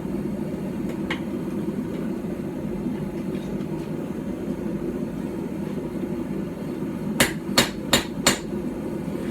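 Steady low hum, then near the end four quick blows, about three a second, of a small hand hammer of about 12 ounces striking a knife blank on a stump anvil.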